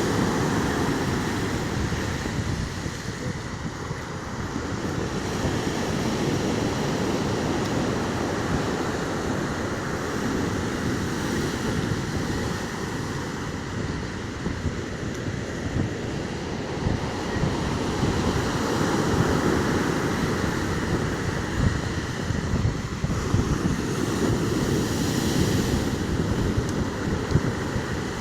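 Stormy sea surf: waves breaking and washing in a dense, continuous rush that swells and eases every few seconds, with wind buffeting the microphone.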